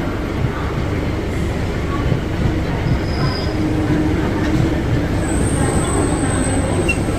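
A Mumbai suburban electric local train rolls slowly past on the adjacent track with a steady rumble of wheels and running gear. A thin, high wheel squeal joins in about five seconds in.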